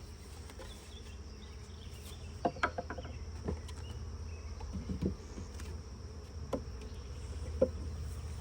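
Honeybees buzzing steadily around an open hive, with a few sharp clicks and knocks from the wooden frames and hive parts being handled.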